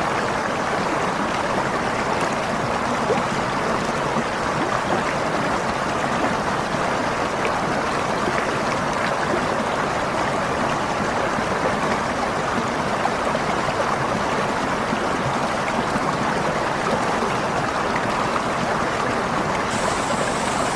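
Waterfall: water falling and rushing in a steady, even wash of noise with no let-up.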